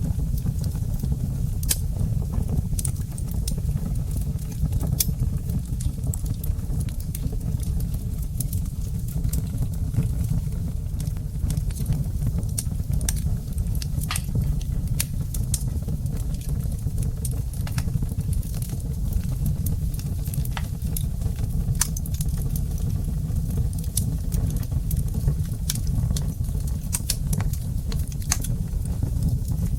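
Wood fire crackling in a fireplace: a steady low rumble of burning with irregular sharp pops and snaps scattered throughout.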